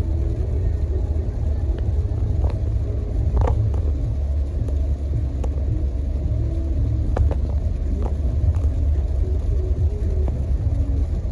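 Steady low rumble like a moving vehicle heard from inside, with a few faint clicks.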